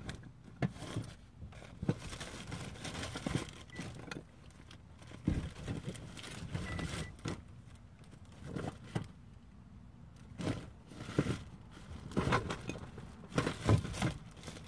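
Scattered scuffs, crinkles and knocks of handling and movement, with a cluster of louder knocks near the end.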